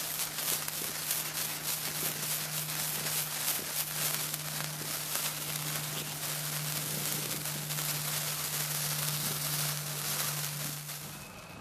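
Sparkler fizzing and crackling steadily: a dense hiss of fine spitting crackles, over a steady low hum. Both stop abruptly near the end.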